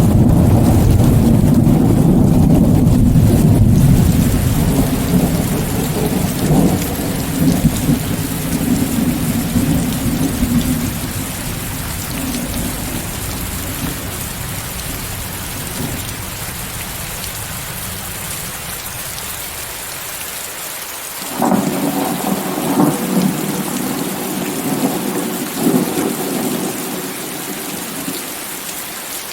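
Steady heavy rain hiss with rolling thunder. A loud low rumble at the start fades away over about ten seconds, then a second peal breaks suddenly about two-thirds of the way through and rumbles for several seconds.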